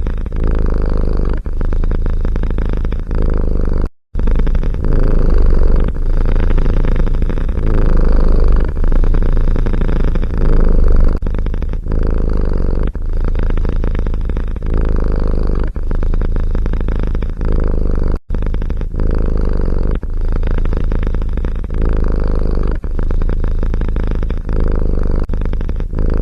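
A domestic cat purring loudly and close up, the purr swelling and dipping about once a second with its breathing. It breaks off for an instant twice.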